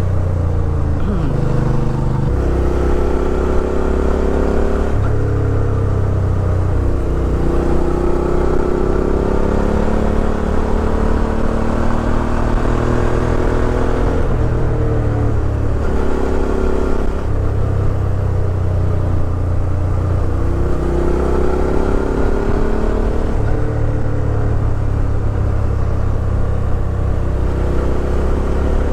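Suzuki V-Strom 650 XT's 645 cc V-twin engine running under way, its note climbing steadily and then dropping back several times as the throttle and gears change.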